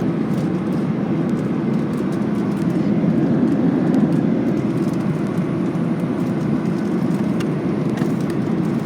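Steady cabin noise of a Boeing 737-800 in cruise: a constant low rush of airflow and its two CFM56 turbofan engines, with a few faint clicks.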